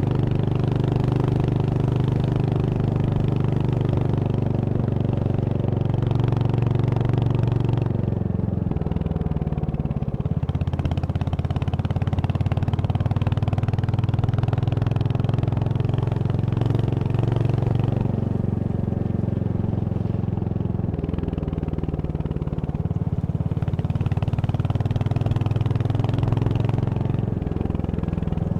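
Royal Enfield Hunter 350's 349 cc single-cylinder engine running steadily with a low exhaust note that drops and picks back up several times as the engine speed changes.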